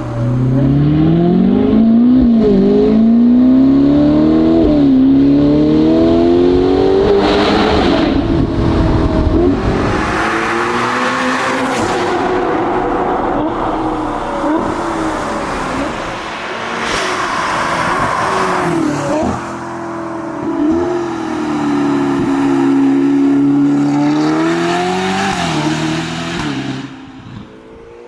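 Ferrari Portofino M's twin-turbo V8 through a NOVITEC stainless-steel sport exhaust, accelerating hard. The pitch climbs and drops back at each of three quick upshifts, then the car runs at a steadier speed with a few shorter revs, and the sound fades near the end.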